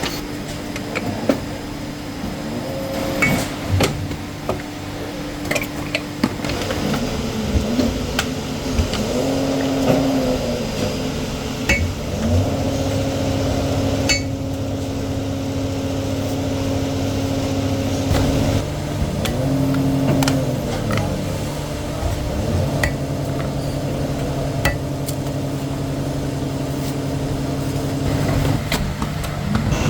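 Factory machinery running: a steady motor hum that several times rises and falls in pitch as a motor speeds up and slows down, with scattered sharp clicks and knocks.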